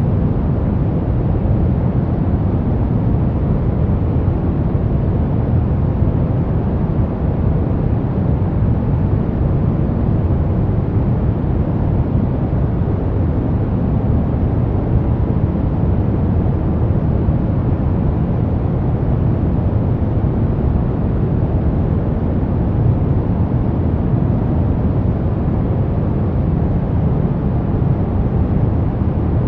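Brown noise: a steady, even rumbling hiss with its weight in the low frequencies, unchanging throughout.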